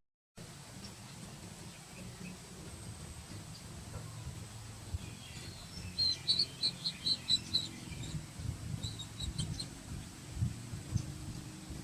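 A rapid series of short, high-pitched chirps, about four a second, starting about six seconds in, with a second, fainter run a few seconds later, over low rumbling and handling noise.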